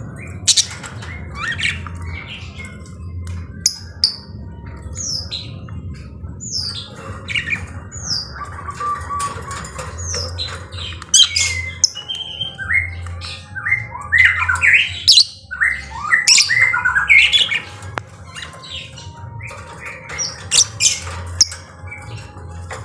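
Lovebird squawking and chirping in a long string of short, shrill calls that sweep up and down in pitch, busiest around the middle.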